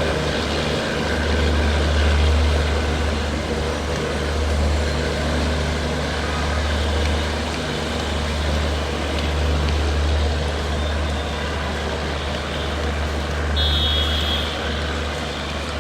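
Engines running steadily with a deep low hum. A short high-pitched horn beep comes near the end.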